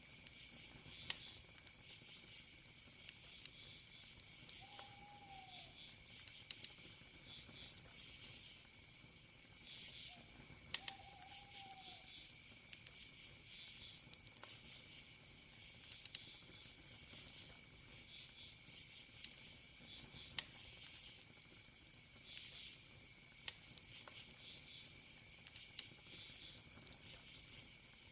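Campfire crackling with sharp wood pops every few seconds over a steady chorus of chirping crickets. A short arched whistle-like call sounds faintly twice, about five and eleven seconds in.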